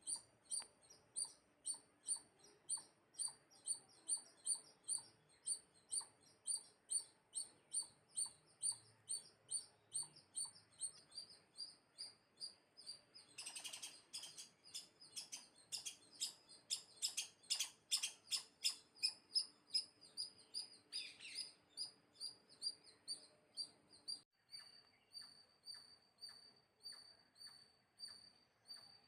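A bird chirping over and over in short, high, evenly spaced chirps, about two to three a second, with a busier flurry of fast chirps in the middle and a fainter, steadier run of chirps after a sudden break near the end.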